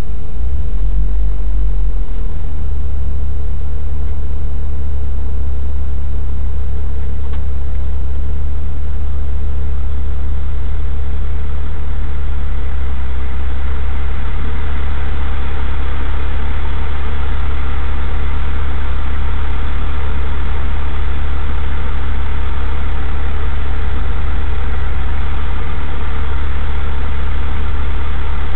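Car engine idling steadily, heard from inside the car as a deep, even drone; it comes from the uploader's Mitsubishi Lancer Evolution wagon.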